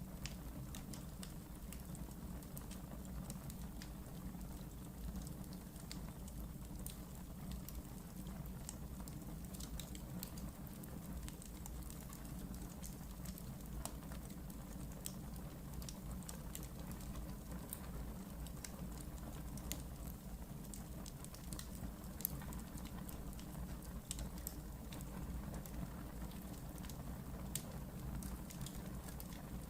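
Wood fire burning in a fireplace: a steady low rumble of flames with frequent small crackles and pops scattered throughout, one sharper pop about two-thirds of the way through.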